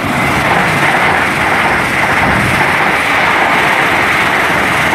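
Two coupled Great Western Railway Class 800 IET trains passing through the station without stopping, a loud steady rush of wheel, rail and air noise.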